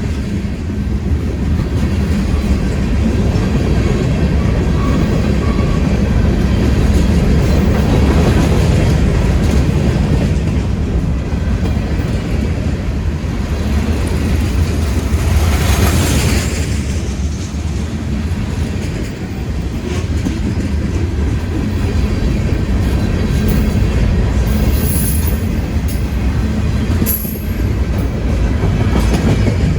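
Freight train cars rolling past on the rails: a steady heavy rumble of wheels with clickety-clack over the rail joints. The rumble swells about halfway through, and short high wheel squeals come near the end.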